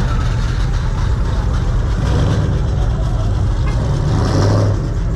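Car engines running with a steady low rumble, swelling briefly about four and a half seconds in.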